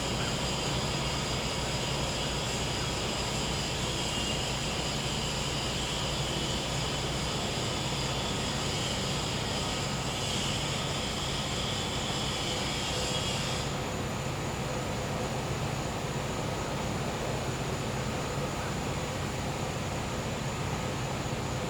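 Steady hum of a gas-powered generator running, with a high insect chorus singing over it that cuts off abruptly about two-thirds of the way through.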